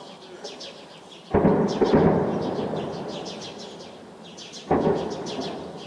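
Two distant explosions from armed clashes, about three seconds apart: each a sudden boom that rolls away slowly, the first louder and longer. Birds chirp throughout.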